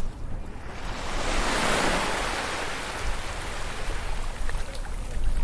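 Ocean wave breaking: a hiss of surf that swells about a second in, peaks, then slowly fades as the water washes back, over a steady low rumble.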